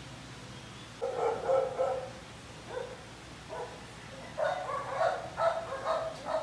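A dog barking: a run of short barks about a second in, a couple of single barks in the middle, then a quicker series of barks near the end.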